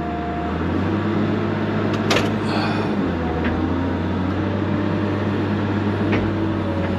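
Cat 318 excavator's diesel engine running steadily, its pitch and level stepping up about a second in as the revs are raised, with a sharp clack about two seconds in.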